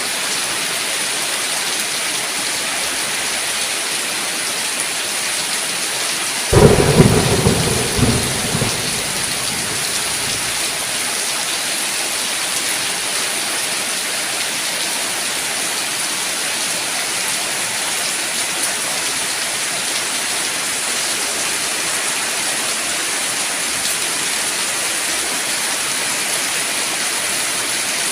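Steady heavy rain, with a sudden thunderclap about six seconds in that rumbles and dies away over about two seconds.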